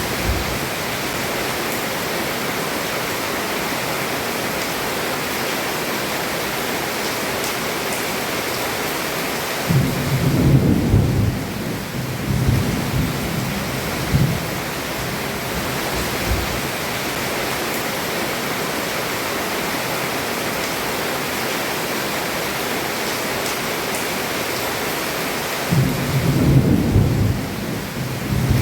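Heavy rain falling steadily on a roof, with thunder rolling twice: a long low rumble about ten seconds in and another near the end.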